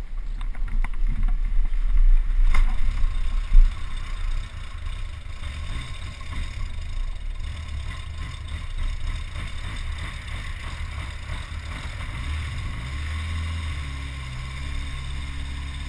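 Yamaha XJ600S Diversion's air-cooled inline-four running after a bump start on a flat battery. It is loudest and uneven in the first few seconds, with wind rumble and a sharp click about two and a half seconds in, then settles to a steady idle.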